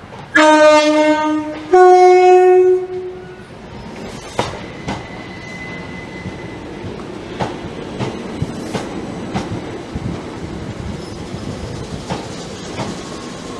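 Passenger multiple-unit train sounding its two-tone horn about half a second in, a low note then a higher note, each just over a second long. It then runs in past the platform with its wheels clicking over rail joints.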